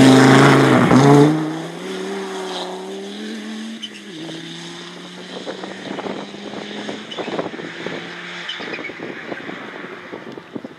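Rally car passing at speed, loud at first, then its engine note falling away as it drives off, with a drop in pitch about four seconds in and the sound fading out well before the end. Scattered sharp clicks run through the second half.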